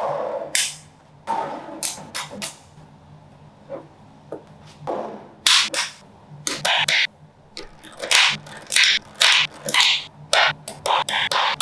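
Small magnetic balls clicking and snapping together as they are built up. Scattered clicks at first, then quick runs of sharp clicks from about halfway on.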